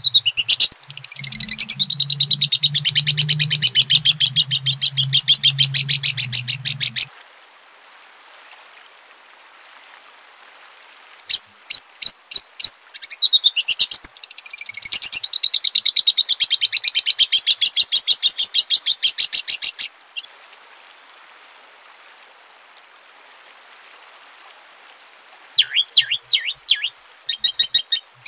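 Songbird song: two long bouts of fast, high repeated notes lasting several seconds each, with pauses of background hiss between them and a low hum under the first bout, then short sharp calls near the end.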